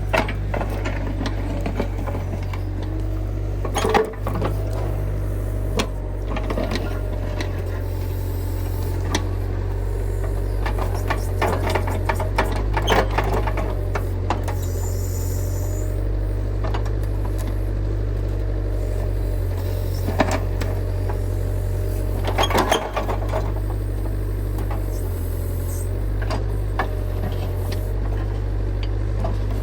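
Excavator engine running steadily under load, with scattered metallic clanks and knocks as it works, the loudest about four seconds in and again near the two-thirds mark.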